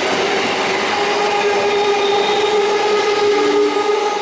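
Train running past on the rails: a steady rushing noise of wheels and running gear, with a held tone over it.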